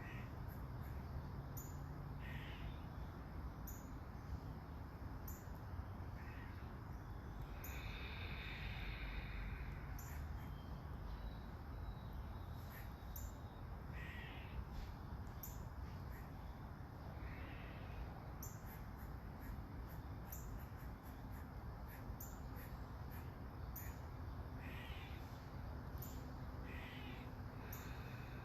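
Crows cawing now and then, single short caws spaced several seconds apart, over a steady hiss of light rain.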